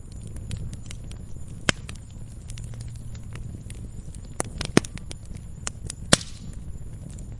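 Fire in a fireplace crackling, with irregular sharp pops over a steady low rumble; three louder pops stand out, about two, five and six seconds in.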